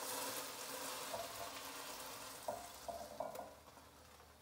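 Cubed chicken sizzling in an oiled skillet on medium-high heat as it is lifted out with tongs; the sizzle fades toward the end, with a few light clicks in the second half.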